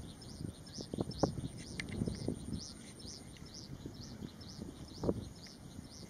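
A bird calling in a rapid, even series of short high chirps, about four a second, with irregular low rumbling noise underneath. The call is suspected to be that of wire-tailed swallows, but even the recordist is unsure.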